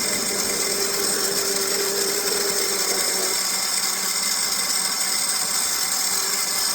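Electric bike motor whining steadily under way, with riding noise; the whine drops away about three seconds in and returns near the end.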